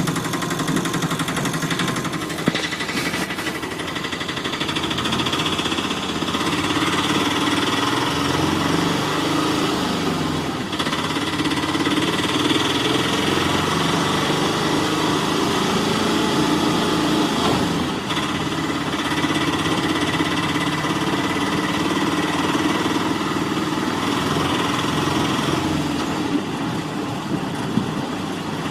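Small motor of a home-made miniature toy tractor running steadily with a rough, rattling buzz as it drives through mud.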